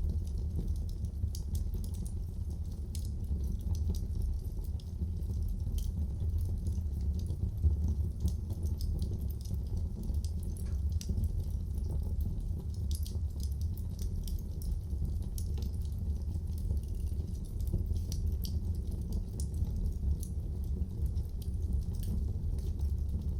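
Wood fire crackling in a fireplace: a steady low rumble of the flames with many scattered small pops and snaps, one sharper pop about eight seconds in.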